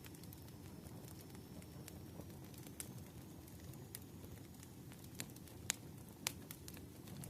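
Fire crackling: scattered sharp pops over a low steady rumble, with a few louder pops in the second half.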